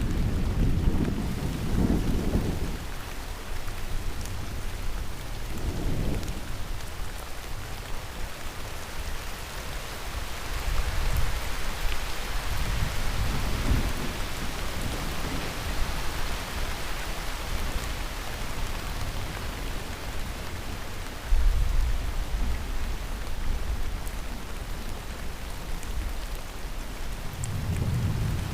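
Heavy rain falling steadily, with thunder rolling in several low rumbles. The loudest rumble breaks in suddenly about three-quarters of the way through.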